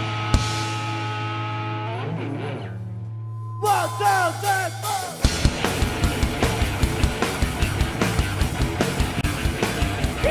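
Live rock band playing: a held guitar chord rings and fades, a guitar plays a few bent notes, then the full band comes in with drums at a fast, even beat about five seconds in.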